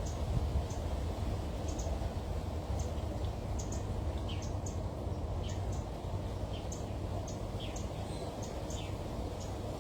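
Small birds chirping, many short high notes scattered irregularly, over a steady low background rumble.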